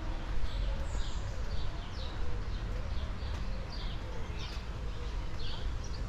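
Small birds chirping, a quick run of short falling notes repeated over and over, over a steady low rumble.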